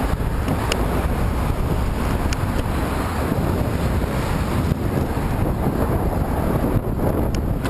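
Wind buffeting a camera microphone on a bicycle riding into a headwind: a steady low rushing, with a few light ticks.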